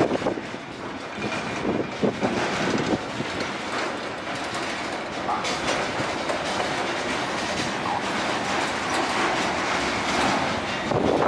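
Intermodal freight train of pocket wagons carrying lorry semi-trailers rolling slowly past as it pulls away from the station, with a steady rolling rumble and the wheels clacking over the rail joints.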